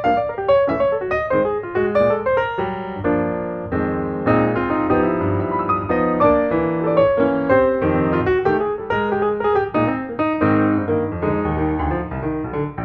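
Piano music: a quick run of single notes, then fuller sustained chords.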